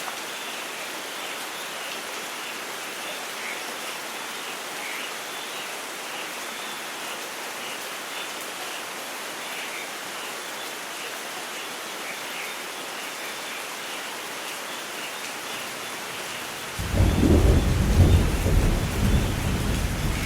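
Steady rain falling, then a sudden loud thunderclap about three-quarters of the way through that breaks into a low rolling rumble under the rain.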